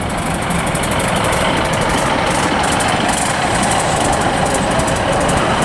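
British Rail Class 156 diesel multiple unit running as it pulls into the platform: a steady diesel engine and wheel-on-rail noise. A faint whine rises slightly in pitch near the end.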